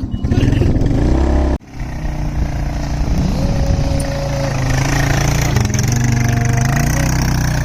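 ATV engines running and revving, their pitch rising and falling, with a sudden brief break about one and a half seconds in.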